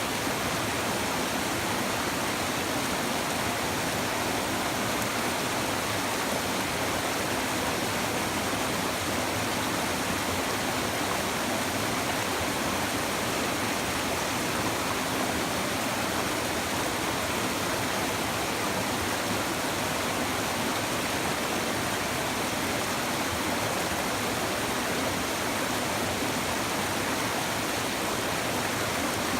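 River water babbling over stones: a steady, even rush of flowing water.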